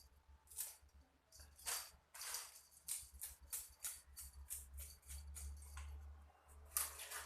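Fish scales being scraped off biawan fish (kissing gourami) in quick, rattling strokes, a few a second and coming faster in the middle.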